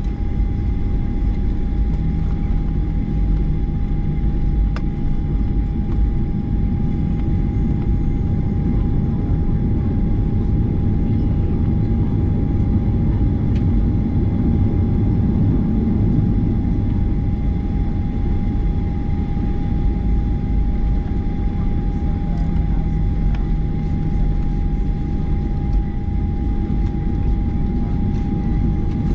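Inside the cabin of a Boeing 737-900ER taxiing: a steady low rumble from the ground roll, with a constant tone from its CFM56-7B engines running at idle.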